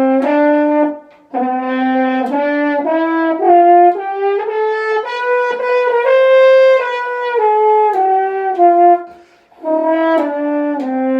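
French horn playing a loud, full-toned one-octave scale. A held low note opens it, then the scale climbs step by step with each note tongued, and comes back down slurred. A second held low note starts near the end.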